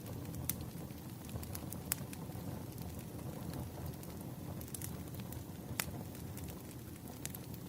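Firewood burning and crackling: a steady low rushing noise with irregular sharp pops, a few of them louder than the rest.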